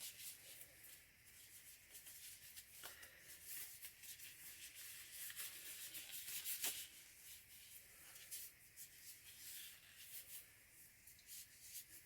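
Faint rubbing and rustling of disposable gloves being pulled onto the hands, with a couple of light clicks.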